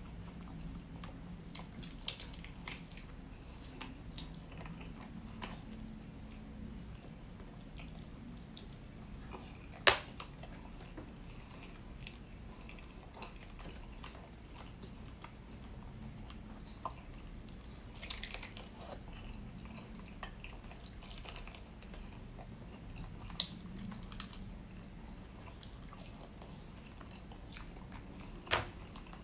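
Close-miked chewing and wet mouth smacks of a man eating rotisserie chicken pulled apart by hand, with scattered sharp clicks; the sharpest comes about ten seconds in and another near the end.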